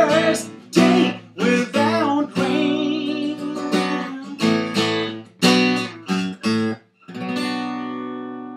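Acoustic guitar strummed in short, sharply stopped chords, with a voice singing over the first couple of seconds. One last chord is strummed at about seven seconds and left to ring out and fade, ending the song.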